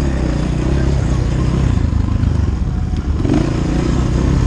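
Off-road vehicle engine running steadily at low revs.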